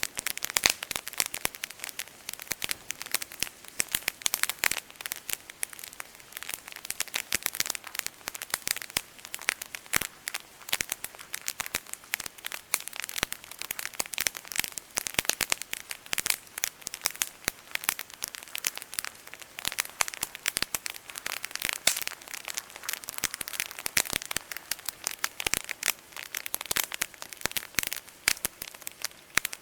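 Wood campfire crackling steadily, a dense run of small pops and snaps.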